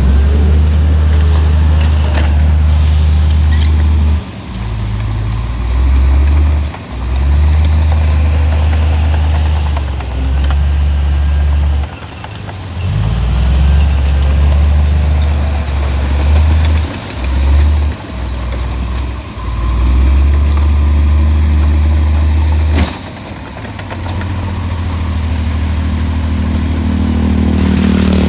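Heavy diesel engine of earthmoving machinery running hard, its deep rumble rising and falling repeatedly as the load and throttle change. A sharp click comes about two-thirds of the way through.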